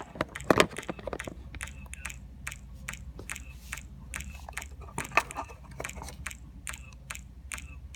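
Crackling playback from the sound bottle prototype's small speaker: an irregular stream of sharp clicks, several a second, over a steady low electrical hum.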